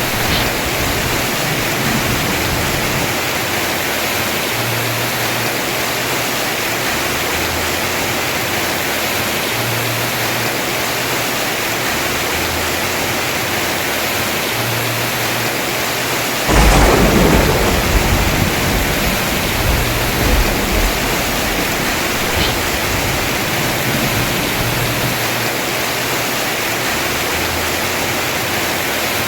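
Heavy rain falling steadily on a house roof, with a sudden clap of thunder a little past halfway that rumbles on for a few seconds before fading back into the rain.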